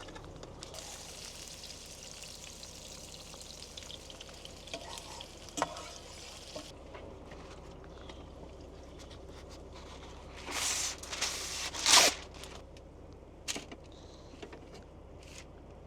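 Food sizzling in a pan; the sizzle stops abruptly about seven seconds in. Cookware and a utensil then clatter and scrape a few times, loudest about twelve seconds in.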